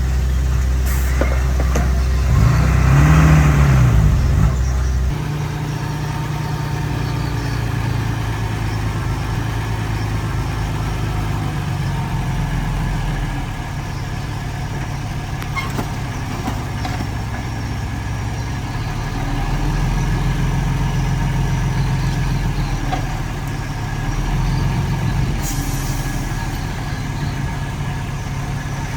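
Heavy diesel engine of earthmoving machinery running steadily; about three seconds in it revs up and falls back.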